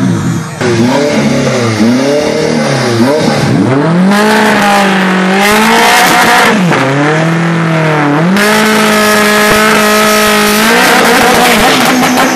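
Car engines revving hard at a drag-race start line: quick rising-and-falling blips at first, then held steady at high revs for a second or two at a time, twice, as the cars are readied to launch.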